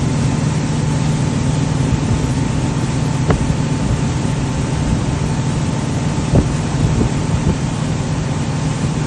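Mercury 115 hp outboard motor running steadily with the boat under way, over a loud rush of noise, with a few sharp knocks in the second half.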